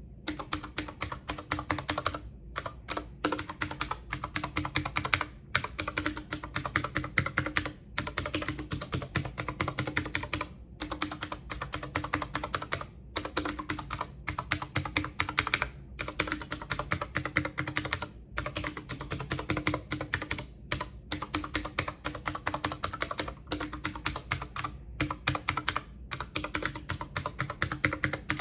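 Fast typing on a computer keyboard: a dense, continuous patter of key clicks broken by short pauses every second or two.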